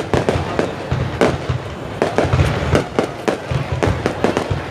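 A fireworks display: shells bursting in a rapid, irregular string of sharp bangs and cracks, several a second, over deeper booms.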